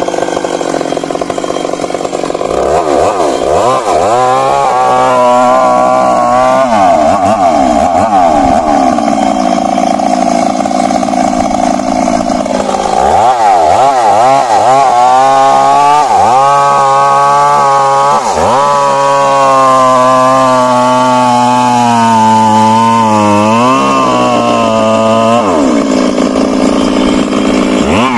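Stihl MS 382 two-stroke chainsaw running at high revs, its pitch dropping and climbing back several times as the engine speed changes.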